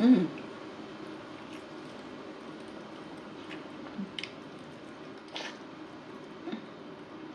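Close-miked chewing of saucy chicken wings, with soft wet smacking and clicking mouth sounds every second or so. A louder short mouth sound comes right at the start.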